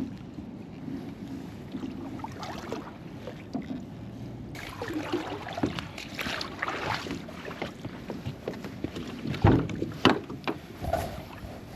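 Kayak paddling: irregular paddle strokes splashing in the water. Two sharp knocks come near the end.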